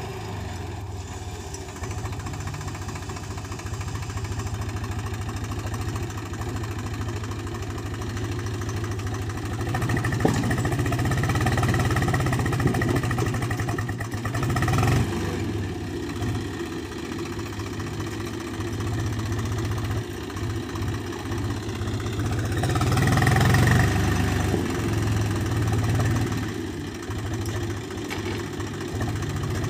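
Tractor diesel engine running steadily, growing louder for a few seconds about ten seconds in and again about twenty-three seconds in.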